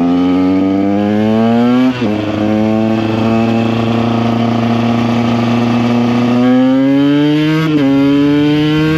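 Two-stroke single-cylinder engine of a KTM EXC 125 under way. Its pitch climbs as it accelerates, then drops sharply at an upshift about two seconds in. It holds fairly steady, climbs again, and shifts up once more near the end.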